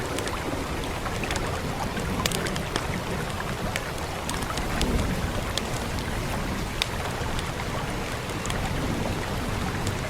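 Steady rain hissing over a low rumble, with the sharp pops and snaps of a crackling wood fire scattered through it.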